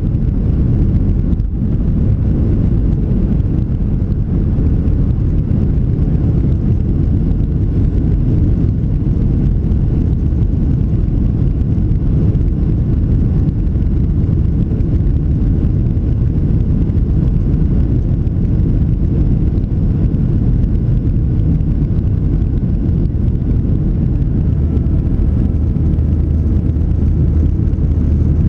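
Steady low rumble of a Boeing 737-700's CFM56 jet engines and rushing air, heard from inside the passenger cabin. Near the end a low hum grows stronger and a faint high whistle comes in briefly.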